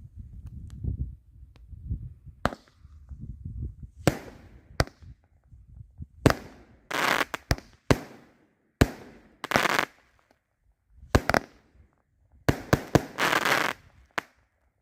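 Consumer 8-shot firework cake firing: a string of sharp bangs from shots launching and breaking, several followed by about a second of dense crackling.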